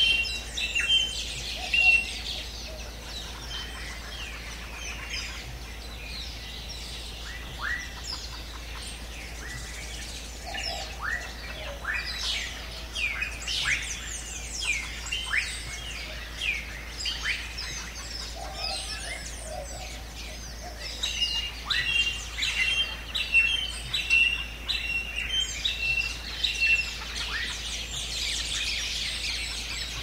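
Many birds calling in a rainforest: one bird repeats a short, steady whistled note several times near the start and again in the last third. In between come many quick, sweeping chirps, all over a steady high hiss of forest background.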